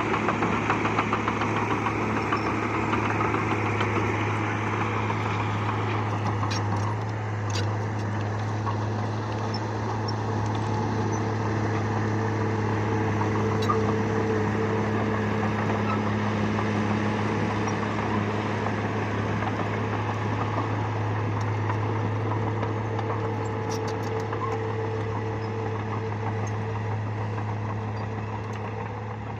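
Bulldozer's diesel engine running steadily, rougher and harder for the first several seconds and then settling, with a few faint metallic clicks here and there.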